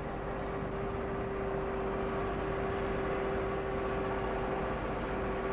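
Massey Ferguson 600 series tractor's Perkins diesel engine running steadily under load, working through a hard stretch without a gear change, a show of its low-rev torque.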